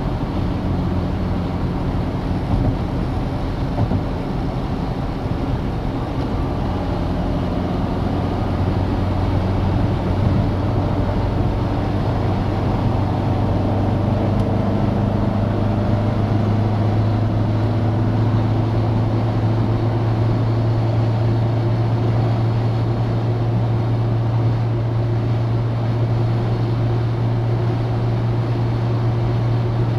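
Citroën DS four-cylinder engine running under way with road noise, a steady drone; the engine note rises slightly about a third of the way through and then holds steady.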